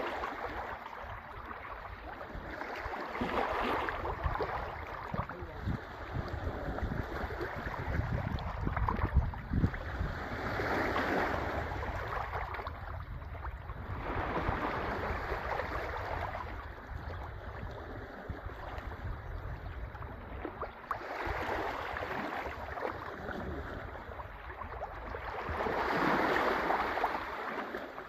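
Sea waves washing in, rising and falling in swells every few seconds, with wind rumbling on the microphone.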